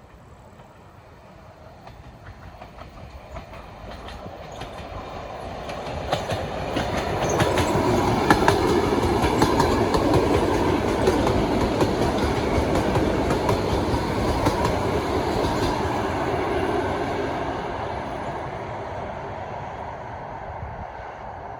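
A train passing close by, its wheels clattering over the rail joints. It grows louder over the first several seconds, runs loud through the middle, then fades away near the end.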